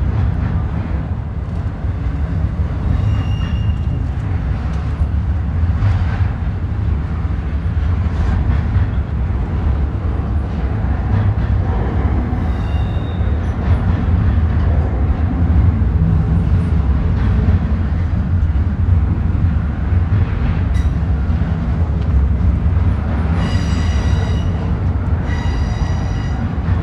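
Norfolk Southern double-stack intermodal train's well cars rolling past, a steady low rumble of wheels on rail. Brief high wheel squeals cut in about 3 and 13 seconds in, and a longer squeal of several tones comes near the end.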